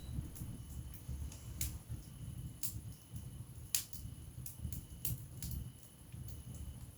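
Wood fire burning in a fireplace: a low steady rumble of flames with sharp crackles and pops of burning logs about once a second, the loudest pop near the middle.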